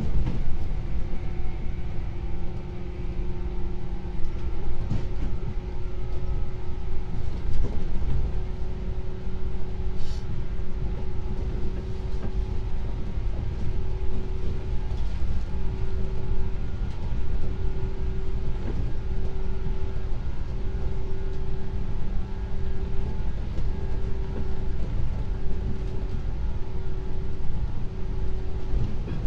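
JR 113 series electric multiple unit under way, heard from on board: a continuous rumble of the wheels on the rails with a steady hum from the traction motors and gearing.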